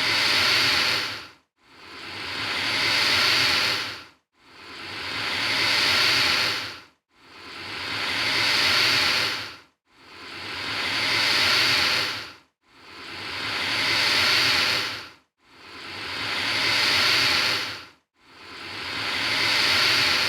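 Alligator hissing over and over: a harsh, airy hiss of about two and a half seconds, each one swelling and fading, repeating about every three seconds with a brief silence between.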